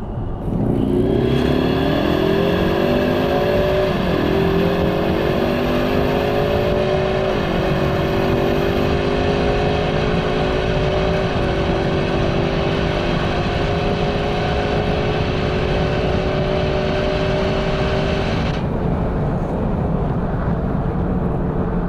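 2018 Ford Mustang EcoBoost's 2.3-litre turbocharged four-cylinder pulling at full throttle. Its pitch climbs through the gears, with three quick upshifts of the 10-speed automatic, shifted manually. Near the end the engine note drops away, leaving road noise.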